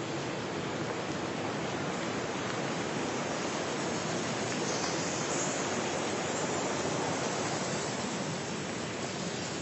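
Steady rushing of water, swelling slightly midway.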